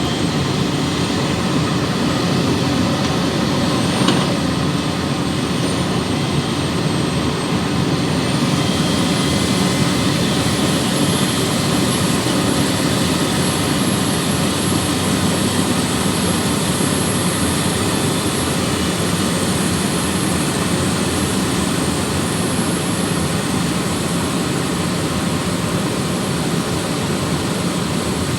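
Hydraulic excavator running steadily, its diesel engine and hydraulics working, with a thin high whine that steps up in pitch about eight seconds in. A single knock sounds about four seconds in.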